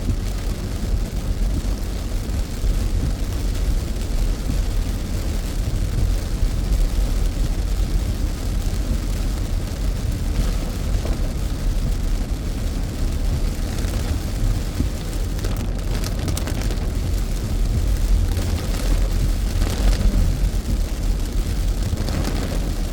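Car being driven in the rain, heard from inside the cabin: a steady low rumble of road and engine noise with the hiss of wet tyres and rain. A few brief crackles come through in the second half.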